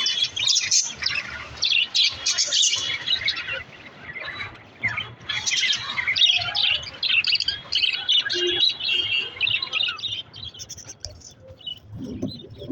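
Budgerigars chirping and warbling, many rapid chattering calls overlapping, thinning out about ten seconds in.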